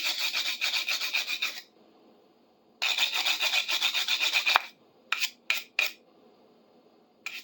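A stiff brush scrubbing rust and grime off a metal pipe wrench: two runs of rapid back-and-forth scraping strokes, then a few single strokes near the end.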